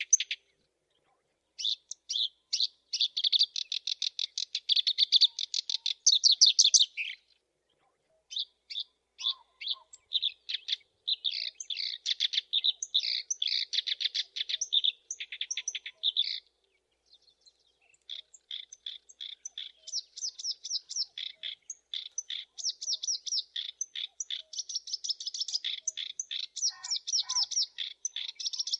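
Black-browed reed warbler singing: long runs of rapid, high repeated notes that break off briefly twice, about a quarter and a little over halfway through.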